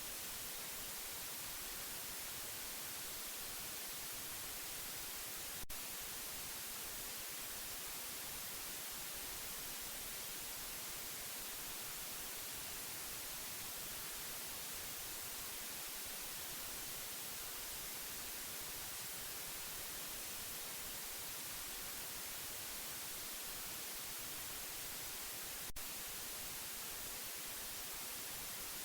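Steady white noise, an even hiss weighted toward the treble. It is broken by two brief clicks, about six seconds in and again near the end.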